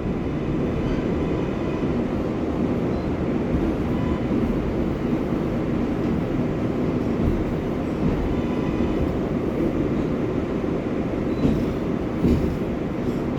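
R188 subway train heard from inside the car: a steady low rumble of the train running on the rails, with two brief knocks near the end.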